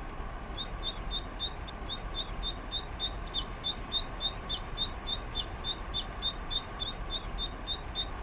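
Male zitting cisticola singing a long run of short, evenly spaced high notes, about four a second.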